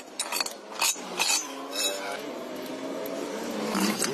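Metal tools clinking and knocking against metal a handful of times, as in a roadside truck repair. Near the end a vehicle engine grows louder.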